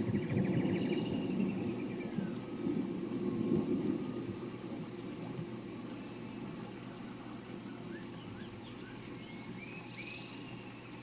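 Rumble of thunder dying away over the first four seconds, over a steady hiss of rain. Birds chirp and trill through it, with a quick trill about a second in and several short calls near the end.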